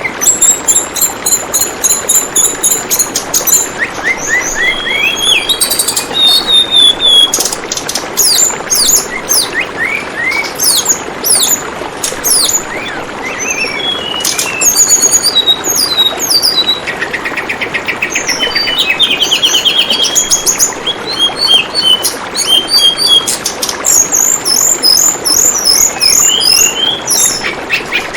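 Tledekan bambu birdsong: rapid sharp chirps, whistles and short trills, with a fast trill about two-thirds of the way through, over a steady murmur of running water.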